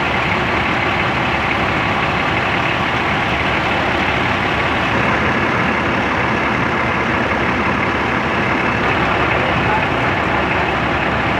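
Large vehicle's engine running steadily at close range, a loud, even rumble.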